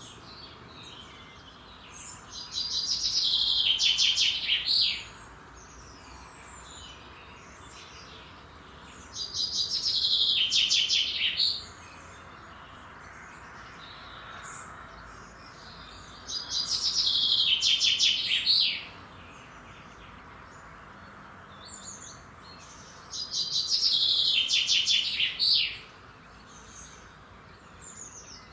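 A songbird singing the same trilled song phrase four times, one phrase roughly every seven seconds, each ending in a quick flourish. Other birds call faintly in between.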